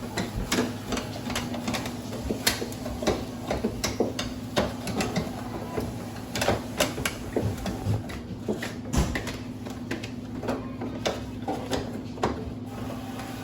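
Irregular clicks, knocks and rustles of groceries and containers being handled and put away, several a second, over a steady low hum.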